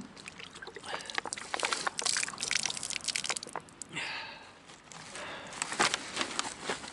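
Discarded plastic drink bottles being handled: crackling plastic and quick clicks in irregular clusters, thickest in the middle, with a brief rustle about four seconds in.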